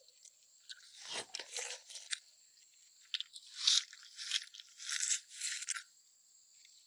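Close-up eating sounds: someone biting and chewing food with wet, crunchy bites in irregular bursts, stopping about six seconds in.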